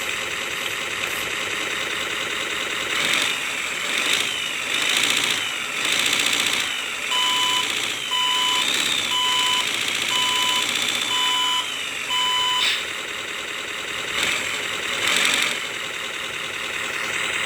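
RC truck sound module playing a simulated truck engine through its small speaker: steady idling with several rises and falls in pitch as it is revved. In the middle comes a run of about six evenly spaced reversing beeps.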